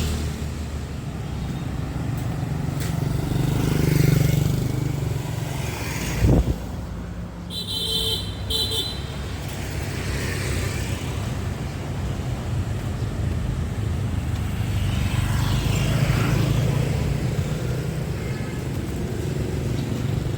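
Busy street traffic: motor vehicles running and passing close by, with a thump just after six seconds and a short two-pulse horn beep a little later.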